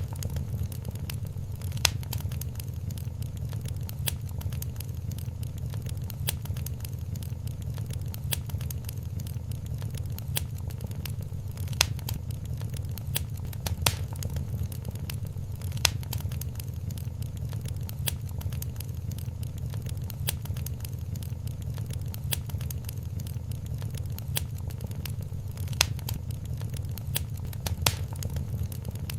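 Wood fire crackling in a fireplace: a steady low rumble of burning with frequent small pops and a few louder snaps scattered through.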